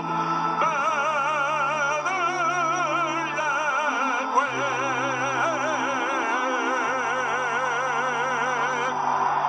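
A male soloist singing the US national anthem with wide vibrato over sustained organ chords.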